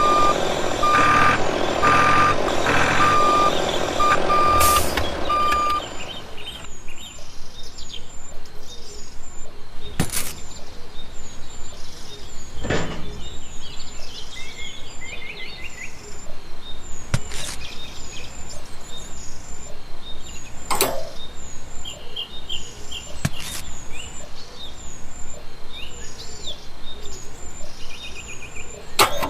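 Reversing alarm beeping about once a second over a vehicle's running noise, stopping about six seconds in. After that, birds chirping, with a few sharp knocks.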